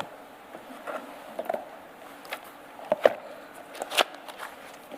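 Paper pages of a bound file being leafed through, heard as a scatter of short rustles and light taps, the sharpest about three and four seconds in.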